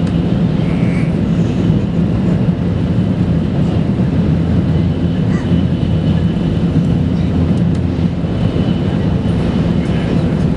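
Steady running noise of a Shinkansen bullet train heard from inside the passenger cabin at speed: an even low rumble with a faint high whine above it.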